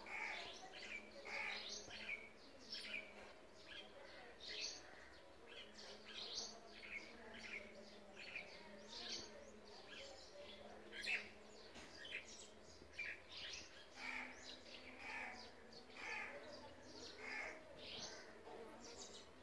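Faint birds chirping: many short, sharp calls, several a second, over a faint steady low hum.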